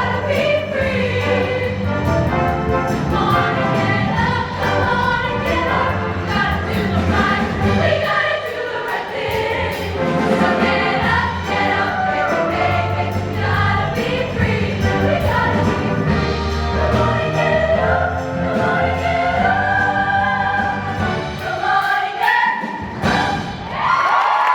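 High school show choir singing in harmony over instrumental accompaniment, ending on a long held note as the bass drops out near the end.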